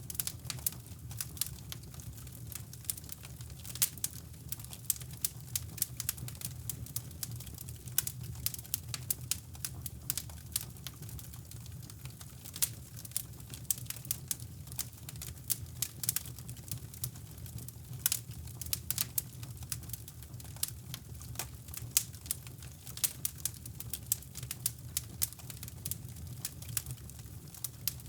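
Wood fire crackling in a fireplace, with irregular sharp pops and snaps over a steady low brown-noise rumble.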